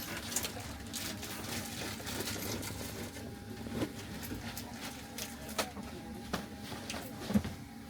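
Inside a sleeper train carriage: a steady low hum with scattered light clicks and knocks, and one sharper knock near the end.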